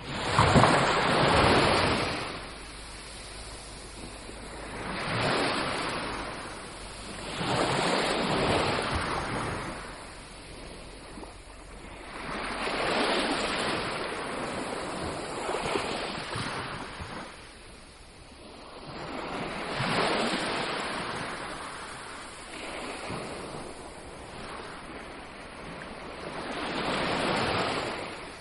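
Sea waves breaking and washing up on a beach, surging in about every three to seven seconds; the first surge, about a second in, is the loudest.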